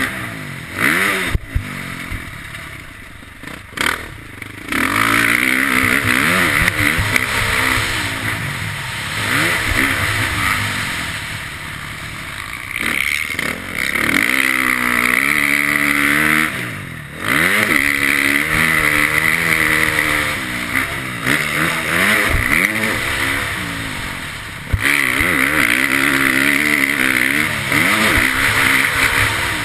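KTM motocross bike engine running hard and revving up and down, rising in pitch as it accelerates. The throttle is snapped shut and reopened several times, with sharp drops in loudness near the start and again around the middle.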